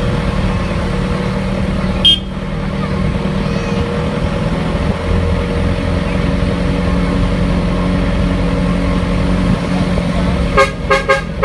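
A vehicle engine runs steadily, with a sharp knock about two seconds in. Several short horn toots sound near the end.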